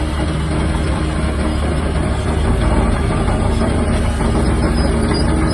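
Shantui DH17-C3 bulldozer's diesel engine running steadily with a low rumble.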